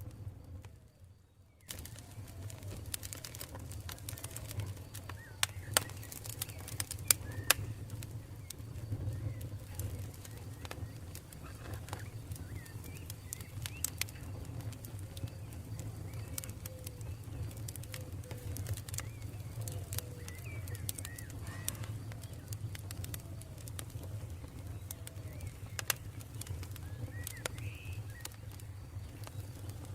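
Campfire crackling, with frequent sharp pops over a low steady rumble of burning wood, and birds calling faintly in the background. The sound dips low for the first second or two, then carries on steadily.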